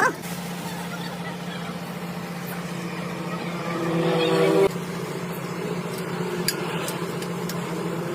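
A steady motor hum, with a louder pitched passage rising for about a second before cutting off suddenly near the middle, and a few sharp clicks near the end.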